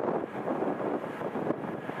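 Aircraft jet engine noise mixed with wind buffeting the microphone, with a faint steady whine coming in about halfway through.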